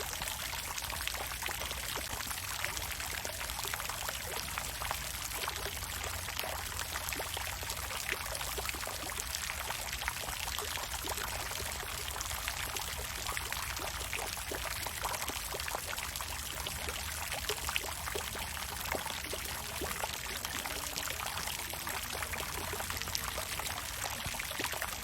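Water fountain splashing and pouring steadily: an even hiss of falling water with many small splashes.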